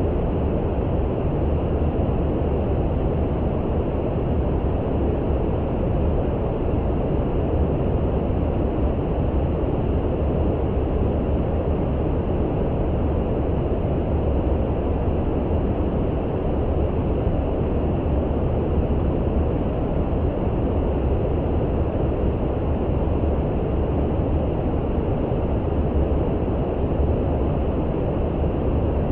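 Steady brown noise: an even, deep hiss, heaviest in the bass with little treble, that does not change.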